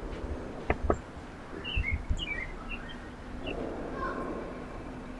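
Small wild birds giving short, high chirps, with two sharp knocks about a second in and a faint steady hum underneath.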